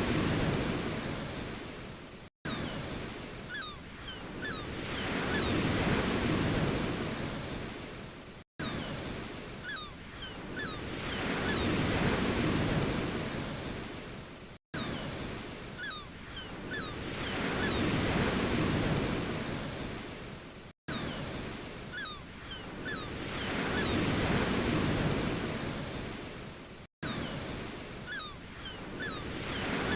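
Ocean waves washing in and drawing back, each surge swelling and fading over a few seconds. The same short stretch of wave sound repeats about every six seconds, with a brief cut to silence between repeats.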